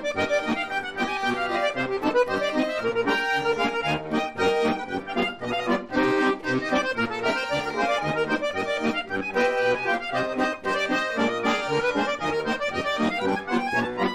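Accordion playing an instrumental folk-style passage: a melody over a regular alternating bass-and-chord accompaniment, closing out the song and stopping just at the end.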